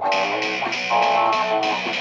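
Layered electric guitar loops playing: picked notes over a strummed pattern.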